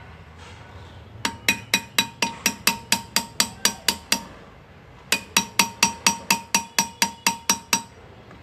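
Hand engraver's hammer tapping a chisel into metal: quick, evenly paced metallic taps, about six a second, each with a short ringing note. Two runs of about three seconds, with a brief pause between them.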